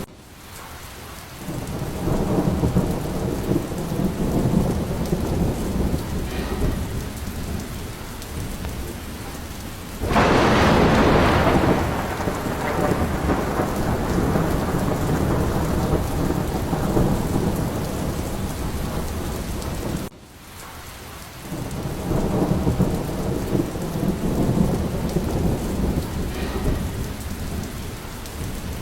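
Steady heavy rain with rolling thunder rumbling underneath. About ten seconds in, a sudden loud thunderclap breaks out and rolls away over a couple of seconds.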